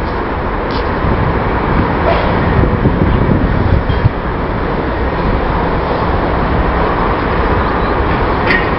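Overhead crane moving along its rails, a steady loud rumble with a few faint clicks.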